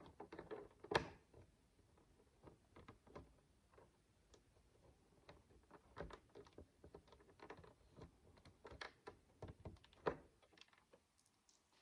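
Micro bricks, tiny plastic building blocks, clicking and tapping as they are handled and pressed together. The clicks are irregular and light, with a sharper snap about a second in and another near the end.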